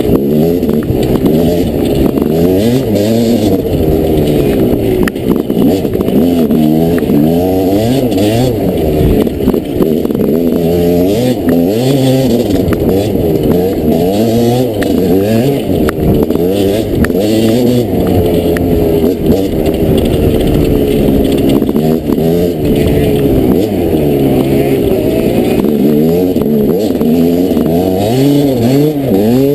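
Dirt bike engine being ridden hard, revving up and easing off again and again, its pitch rising and falling every second or two.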